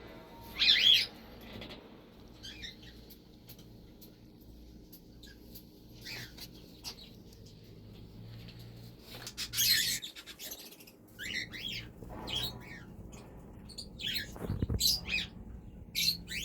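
Birds chirping in short, scattered bursts on and off, over a faint low steady hum.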